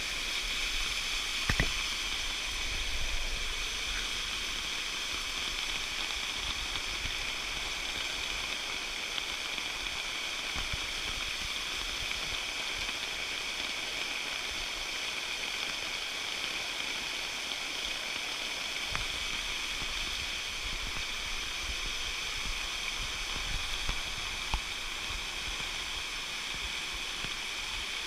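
Flash-flood water rushing steadily, with a faint click about a second and a half in and another near the end.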